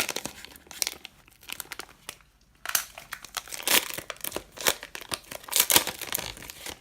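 Foil trading-card pack wrapper crinkling as it is handled and torn open, a run of quick crackles with a short pause about two seconds in.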